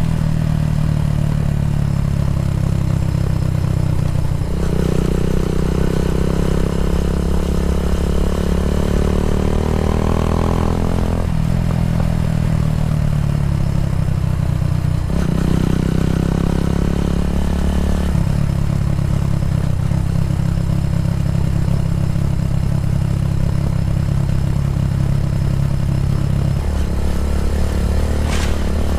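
Kawasaki W175's single-cylinder engine running through an aftermarket racing exhaust. The revs climb steadily for several seconds from about five seconds in and drop off sharply, climb again briefly a few seconds later, then hold at a steady lower note.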